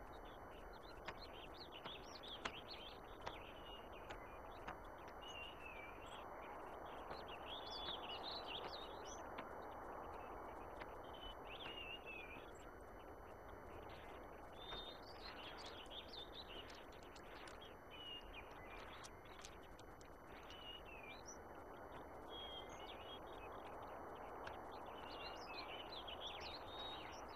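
Faint outdoor ambience with small birds chirping on and off, over a low steady hiss.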